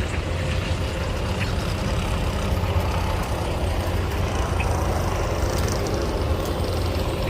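Antique tractor engine running steadily with a low, even drone.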